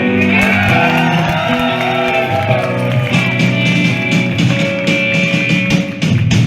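A live rock band plays loud electric guitars: held, ringing chords with notes bending in pitch.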